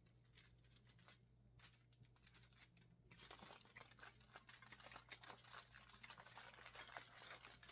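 Faint crinkling of aluminium foil as a tortilla wrap is folded and rolled by hand, starting about three seconds in, over a steady low hum.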